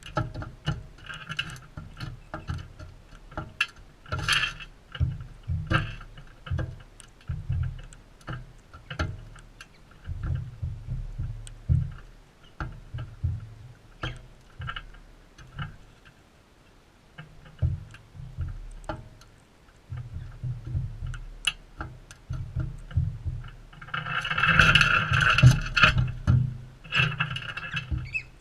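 Galahs giving harsh, rasping screeches in short bursts, with a longer, louder burst about 24 seconds in, over scattered sharp clicks and low rumbling thumps.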